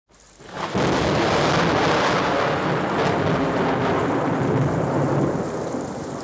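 Thunderstorm sound effect on the intro of a pop record: a rumble of thunder swells up over the first second, then heavy rain with rolling thunder runs on steadily.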